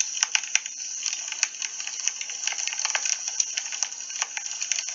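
Wood fire crackling, a steady hiss with frequent irregular sharp pops.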